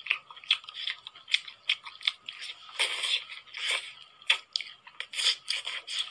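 Close-miked eating: wet mouth clicks and chewing, several sharp clicks a second, as pieces are bitten off a skewer of chili-topped food, with a couple of longer, louder mouth sounds around the middle.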